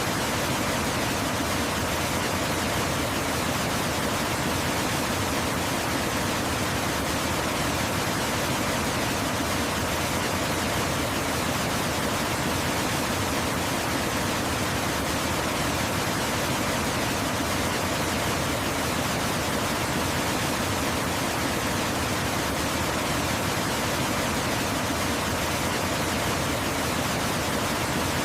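Waterfall rushing in a steady, unbroken hiss of falling water, the same throughout with no separate splashes or other events.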